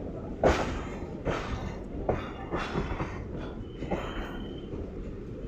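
MEMU electric train running slowly with a steady low rumble, its wheels knocking sharply about six times at uneven intervals as they cross rail joints and points at the junction entry.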